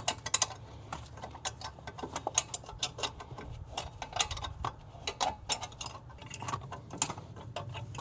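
A wrench working a turbo mounting bolt loose: a run of quick, irregular metallic clicks and clinks as the tool is turned and reset, over a faint steady low hum.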